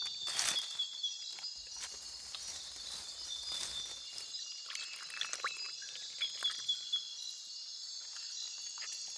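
Chorus of rainforest insects: steady, high-pitched trilling. A few short clicks are scattered through it, and there are brief rushes of noise about half a second in and near the middle.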